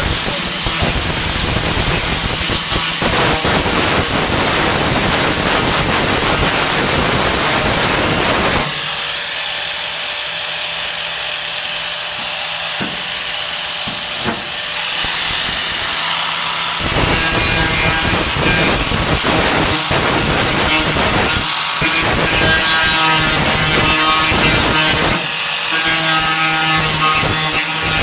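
A 4.5-inch angle grinder working the rusty sheet metal of a pickup's wheel arch: a steady motor whine under loud abrasive grinding. The contact lightens about 9 seconds in, then turns rougher and more chattering about 17 seconds in.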